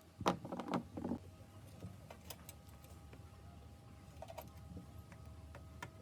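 A short run of clattering knocks lasting about a second, followed by scattered light clicks.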